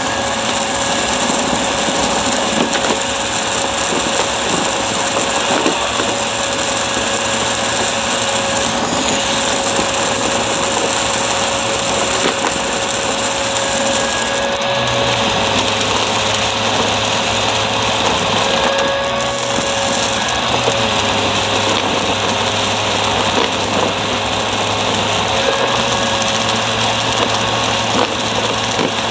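Upright vacuum cleaner running steadily with a constant motor whine, its low hum shifting in pitch about halfway through.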